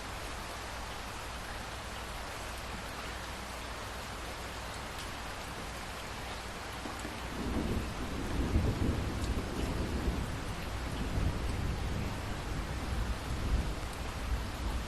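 Steady rain falling, with a long low roll of thunder rising about seven seconds in and rumbling on, louder, through the rest.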